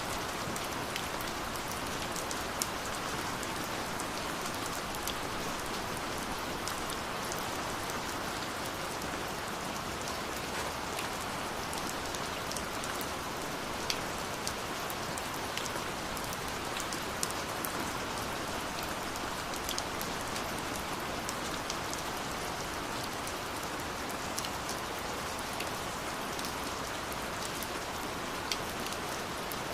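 Steady rushing of a waterfall, with scattered sharp crackles and pops of a wood fire.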